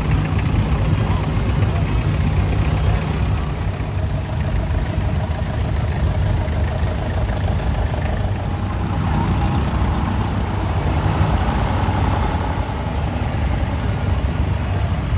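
Vintage tractor engines idling steadily.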